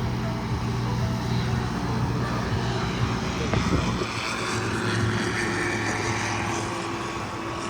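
Steady mechanical hum and whine of an AgustaWestland EH-101 Merlin helicopter's engines or auxiliary power unit running on the ground. The low hum drops away and a new steady tone takes over about four seconds in.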